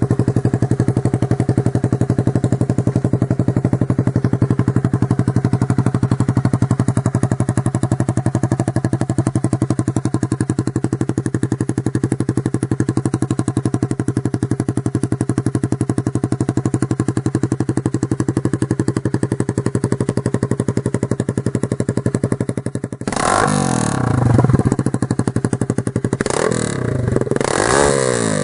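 Honda CBR250 motorcycle engine idling steadily, then revved up and down several times in the last five seconds, the pitch rising and falling with each rev.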